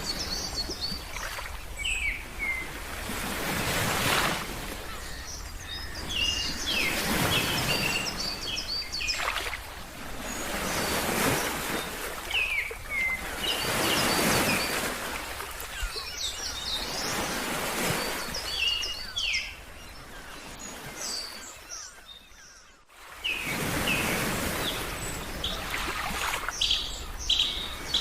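Ocean surf washing in swells every three or four seconds, with small birds chirping in short repeated bursts over it. The whole sound fades away for about a second near the end, then comes back.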